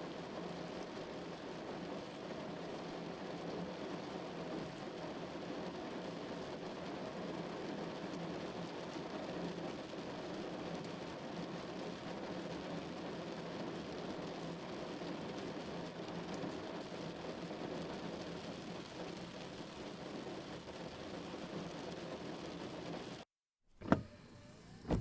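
Steady rain drumming on a car roof, heard from inside the car. Near the end it cuts off suddenly, and two sharp clicks about a second apart follow, with a brief sweeping sound.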